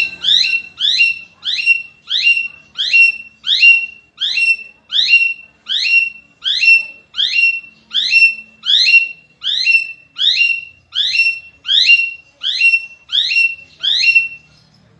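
A bird calling over and over, about two short loud calls a second, each dropping in pitch. The calls stop shortly before the end.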